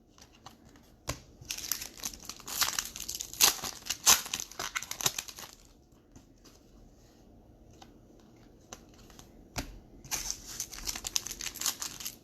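Trading-card pack wrapper crinkling and tearing as a pack is opened and handled, in two spells with a quieter gap of a few seconds between them.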